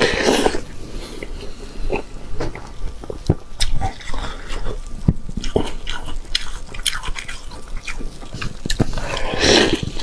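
Close-miked mouth sounds of a person biting into a soaked, dripping chunk and chewing it: a big wet bite just after the start, sharp clicking and smacking chews through the middle, and another big wet bite near the end.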